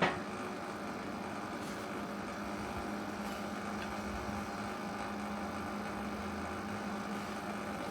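Steady electrical hum of a switched-on MIG welder, with a single click right at the start.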